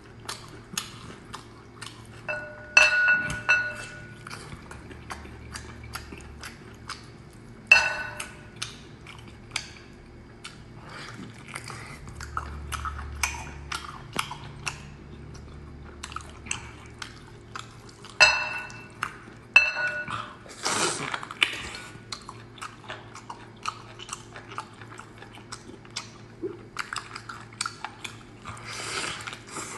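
Close-up wet chewing and biting of a large piece of braised meat with soft gelatinous skin: a steady stream of quick mouth clicks and smacks, with a few louder bites and slurps scattered through.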